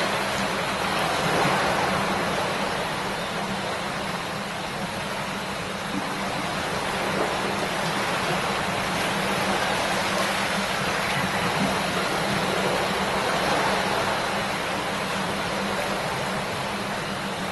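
A shallow river babbling and rushing steadily over stones, with a low steady hum underneath.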